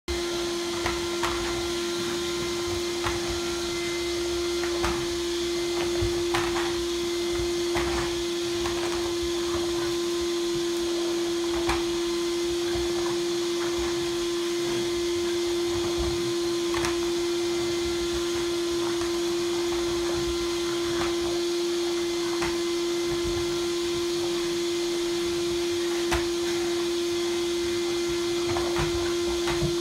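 Vacuum cleaner running steadily: a constant motor hum with airflow hiss, and scattered light knocks and clicks.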